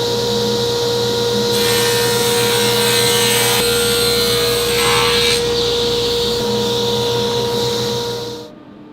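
A power tool running while it works wood: a steady motor whine under a rasping noise that grows denser in the middle. It stops abruptly near the end.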